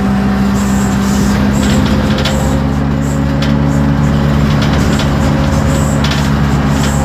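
Isobus City 1200 city bus under way, its MAN D0836 LOH diesel engine running steadily, with the engine note changing about two seconds in. Light rattles of loose interior parts come through over the engine.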